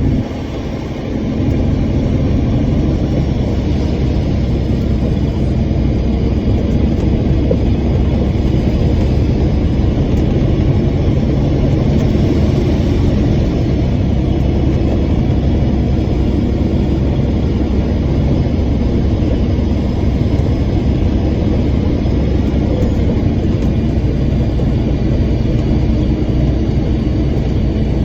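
Dump truck's diesel engine running steadily, a continuous low rumble.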